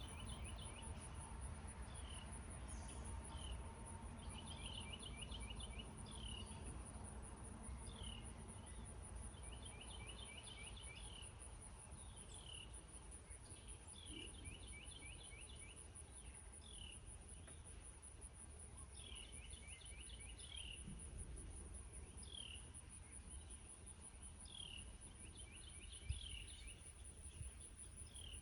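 Faint meadow ambience. A steady, high insect trill from crickets runs under a songbird that calls every couple of seconds, alternating single downward notes with quick runs of rapid repeated notes, over a low background rumble. There is one brief tap near the end.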